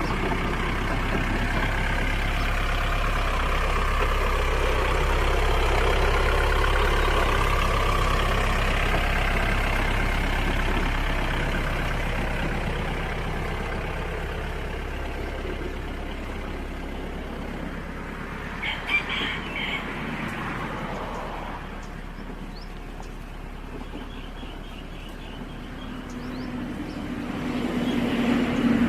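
Farm tractor engine running, louder through the first half and then fading. A rooster crows briefly about two-thirds of the way through.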